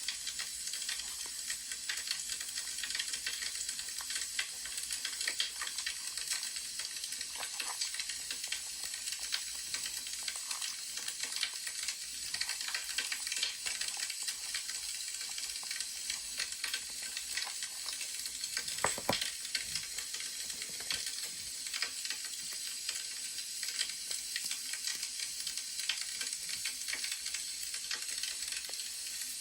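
Wood fire crackling: a steady hiss full of small pops and snaps, with one louder snap about two-thirds of the way through.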